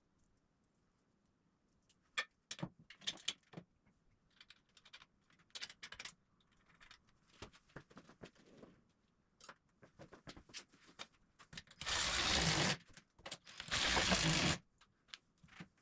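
Scattered metal clicks and clinks of steel welding-table parts and bolts being handled and fitted, then two loud bursts of about a second each of fastening-tool noise, a little under two seconds apart, near the end.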